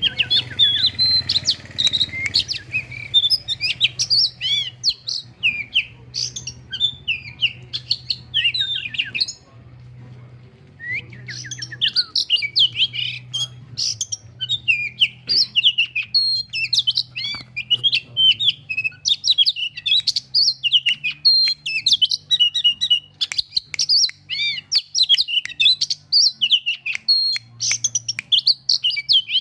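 Oriental magpie-robin singing a fast, varied string of whistles and chirps, worked up by the sight of a rival bird. The song breaks off briefly about ten seconds in, then carries on.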